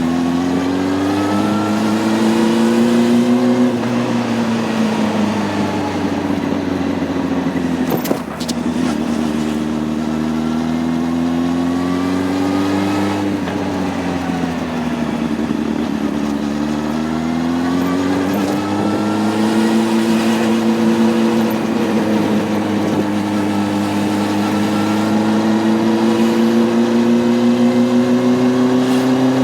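Honda CB600F Hornet's inline-four engine running under way, its revs rising and falling several times, with a short break in the engine note about eight seconds in and a slow, steady climb near the end.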